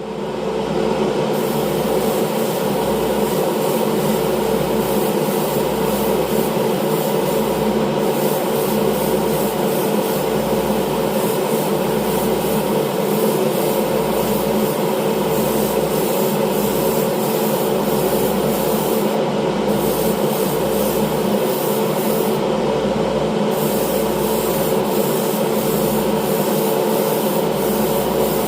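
Spray-painting equipment running steadily: the hum of the spray booth's extraction fan and the hiss of compressed air from the spray gun. The highest part of the hiss drops out briefly a few times.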